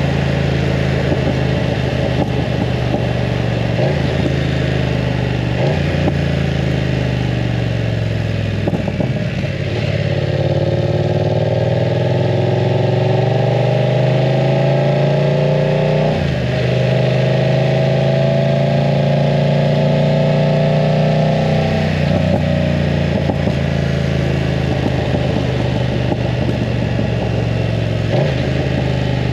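BMW F900 R's parallel-twin engine running through a full exhaust system while riding. The pitch climbs steadily under acceleration, with brief breaks and drops in pitch at several gear changes.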